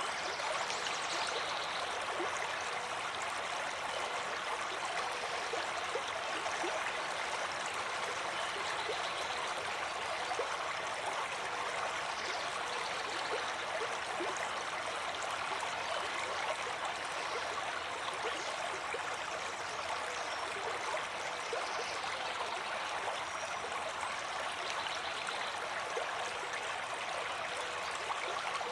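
Flowing water running steadily, an even rushing with fine splashing and gurgling flecks through it.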